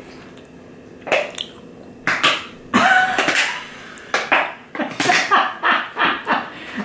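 Someone eating a soft donut close to the microphone: chewing and lip-smacking in irregular bursts that start about a second in, with a few muffled voiced sounds through a full mouth.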